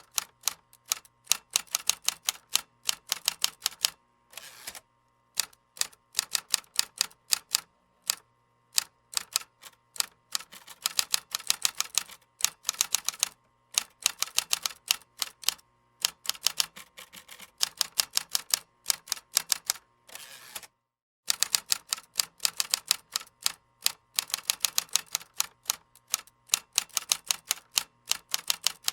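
Typing on a computer keyboard: quick runs of key clicks, several a second, broken by short pauses, with a longer break about two-thirds of the way through.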